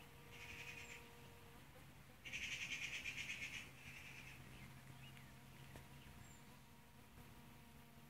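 A bird's rapid high trill, heard twice: a short one near the start and a longer, louder one about two seconds in, over otherwise quiet surroundings.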